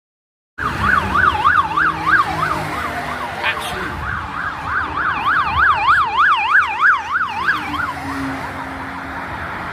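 Police car siren in fast yelp mode, its pitch sweeping quickly up and down about three times a second over road noise from passing traffic, stopping near the end.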